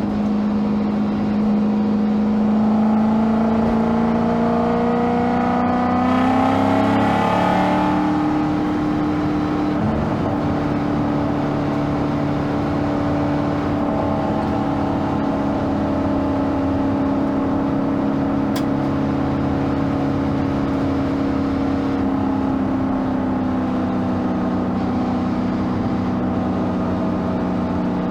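Lexus SC400 drift car's engine accelerating on the road, its pitch climbing for the first seven seconds or so, then settling into a steady drone at cruising speed that eases down slightly near the end.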